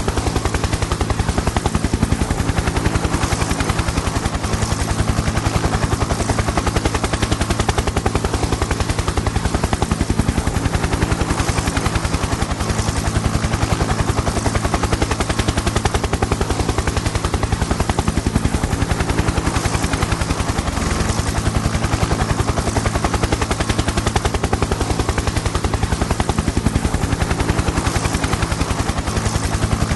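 Helicopter in flight, its rotor blades chopping in a fast, even rhythm over a steady engine hum.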